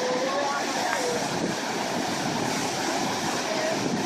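Steady rushing roar of the Potomac River's whitewater pouring over the falls.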